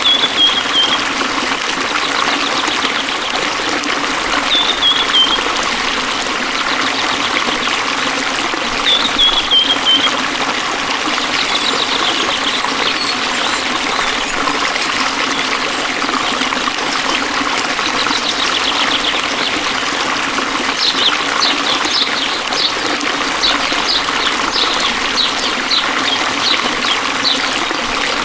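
Forest stream flowing and trickling steadily. A bird calls over it with short falling whistles every few seconds, then a quick run of chirps in the second half.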